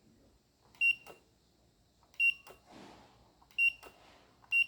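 JY258 timer board's buzzer beeping at time-out: a short high beep about every 1.4 seconds, four times, each with a click just after.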